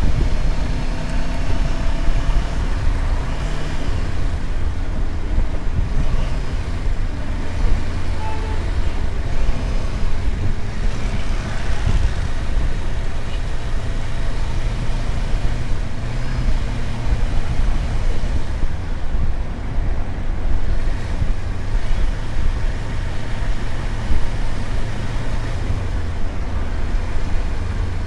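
Motorcycle engine running steadily while riding, a constant low rumble with road noise.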